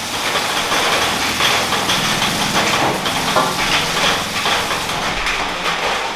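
Motorbike engine running, with irregular knocks and clatter over it.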